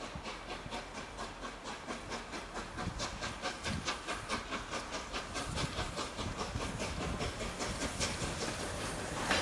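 Peppercorn A1 Pacific steam locomotive 60163 Tornado working under steam, with a fast, even beat of about five a second over steady steam hiss. It grows louder near the end.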